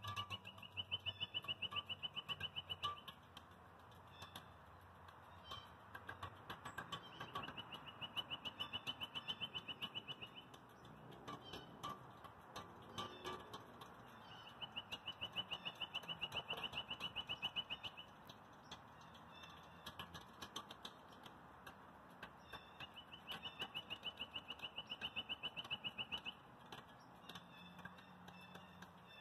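A songbird repeating a rapid, even trill of about three seconds, four times, with scattered short chirps in between.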